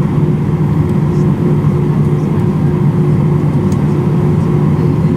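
Steady cabin noise inside a passenger jet airliner: the engines and airflow make a loud, even, low rumble with a constant hum.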